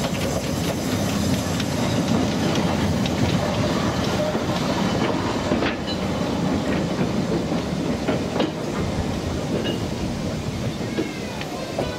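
Narrow-gauge goods train of wooden wagons rolling slowly past behind a small steam locomotive, wheels rumbling and clicking over the rail joints.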